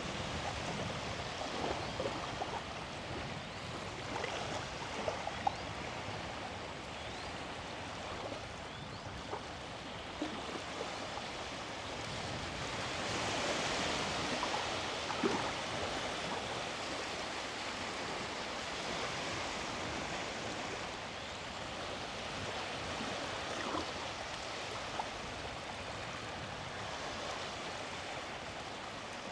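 Small sea waves washing onto the shore in a steady wash, swelling about halfway through as a larger wave breaks and runs up the beach.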